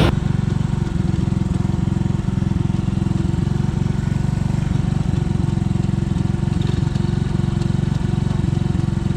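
Motorcycle engine running steadily, a fast, even putter.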